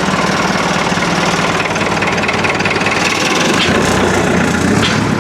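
A vehicle's engine running steadily at idle, its note getting deeper about three and a half seconds in.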